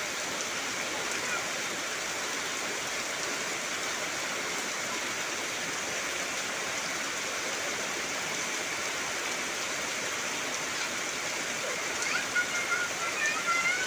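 Heavy rain falling steadily, a dense even hiss. Near the end a few short, high calls rise over it.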